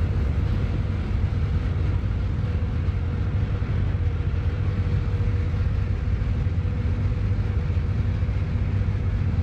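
A river trawler's engine running steadily under way: a constant low drone with a faint steady tone above it.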